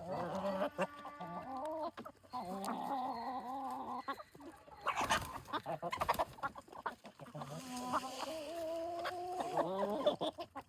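Chickens calling: three long, wavering calls, with a run of short, sharp clucks in between.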